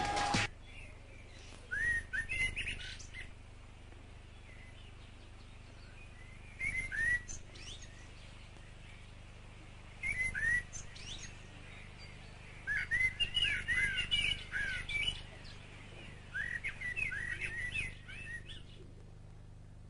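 Small birds chirping in about five short bursts of quick, curving high calls with pauses between them, over a faint steady low hum.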